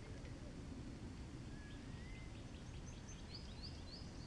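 A songbird singing: a short rising whistle, then a run of quick, high chirping notes, over a steady low background rumble.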